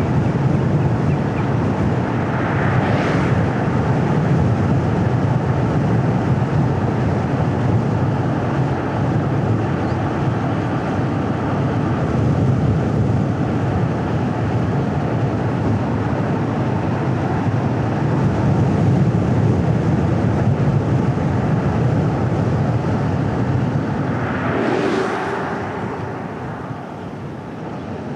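Car driving on a paved road: a steady low road and tyre rumble with engine, and twice a brief rising-and-falling hiss, about 3 seconds in and again near the end.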